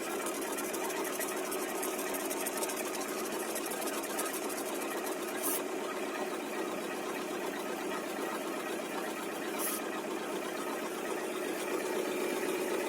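Car engine idling with the power-steering pump running, its pulley just sprayed with WD-40 to test whether the pump is the source of the hum and crackling. The test traces the noise to a worn pump bearing. Two brief hisses come about five and ten seconds in.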